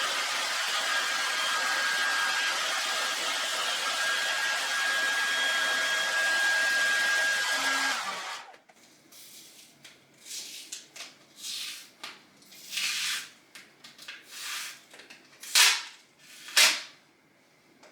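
Heat gun blowing steadily, with a thin high whine over the rush of air, then switched off about eight seconds in. After it comes a string of short scraping and peeling sounds as stickers are pulled off the bike's plastics, ending in two sharp, loud rips.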